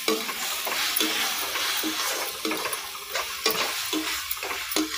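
Tomato-and-spice masala sizzling in hot oil in an iron kadhai while a slotted metal spatula stirs it, scraping the pan in repeated strokes about every half second.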